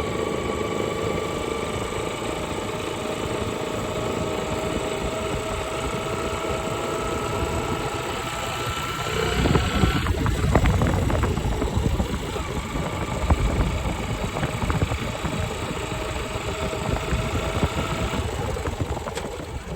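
Motor vehicle running in third gear: a steady engine drone with a whine that rises slowly in pitch. About nine seconds in it gives way to a louder, rougher rumble.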